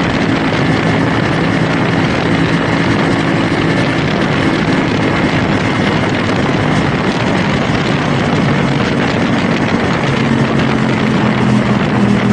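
CFMoto 450SR S parallel-twin engine running at a steady pitch while the motorcycle is ridden, over a dense rush of wind and road noise.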